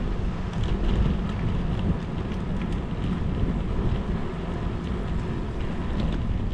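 Wind rumbling over the microphone of a camera on a bicycle riding in the rain, with rain noise and a few faint ticks.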